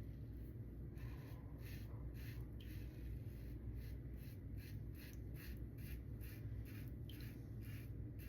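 Faint, short scratchy strokes of an open-comb safety razor, a Lambda Ares v2, cutting through lathered stubble, several strokes a second in a steady run.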